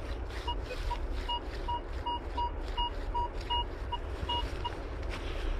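Minelab Vanquish 440 metal detector giving a string of short, same-pitched beeps, about two or three a second, as the coil is swept over a target; the beeps stop shortly before the end. Low wind rumble on the microphone underneath.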